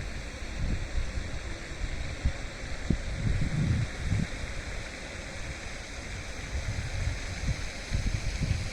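Wind buffeting the microphone in irregular low gusts, over a steady rushing hiss.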